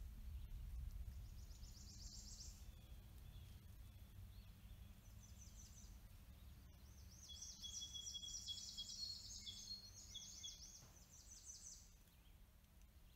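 Faint songbirds singing: repeated runs of quick, high chirping notes, busiest in the second half, with a few short thin whistles, over a low steady background rumble.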